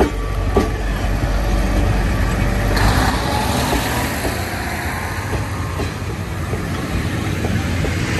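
DR2102 diesel railcar running with a steady low drone. About three seconds in, a broad hiss rises and then fades over a few seconds.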